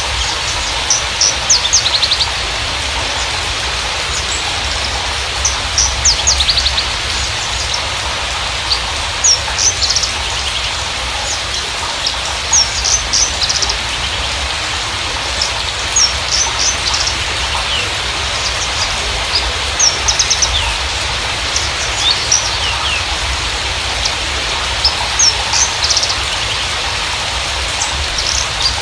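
Javan bushlark (Mirafra javanica parva) singing in bursts of short, high chirps and quick trills every second or two, over a steady hiss. It is a lure recording, played to coax a silent bushlark into singing.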